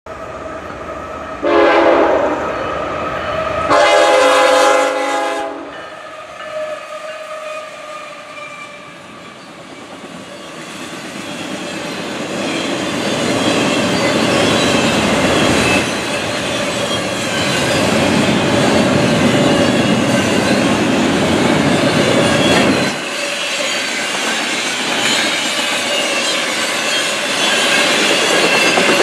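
A locomotive air horn sounds two blasts for the grade crossing, the second longer and louder. The approaching double-stack intermodal train then grows louder until its container cars are rolling past, with steady wheel rumble and clickety-clack over the rail joints.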